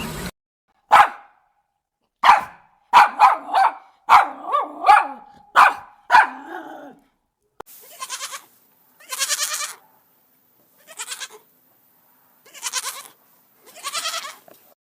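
A dog barking, about eight short sharp barks, some in quick pairs, then goat bleating: five longer quavering bleats spaced a second or so apart, with a steady hiss in the background.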